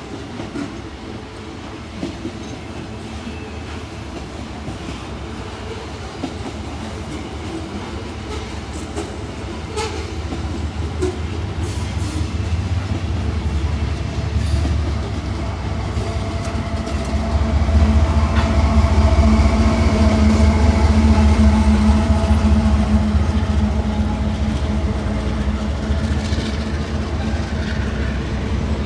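Diesel-hauled freight train passing, a steady low rumble that grows louder and peaks about two-thirds of the way through, with steady engine tones at its loudest.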